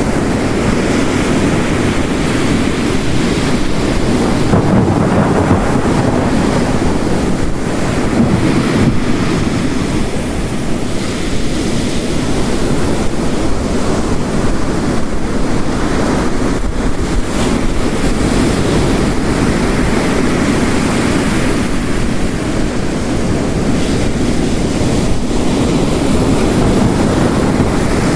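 Ocean waves crashing on a coast mixed with heavy rain: a dense, steady roar that swells and eases every few seconds.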